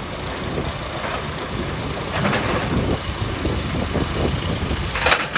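Heavy machinery running with a steady low rumble, with a short sharp hiss or crack near the end.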